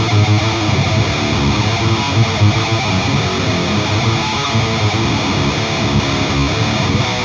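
Electric guitar through an Engl Savage 120 Mark II's lead channel, boosted by a Lone Wolf Audio Left Hand Wrath HM2-style distortion pedal, playing continuous heavily distorted metal riffing.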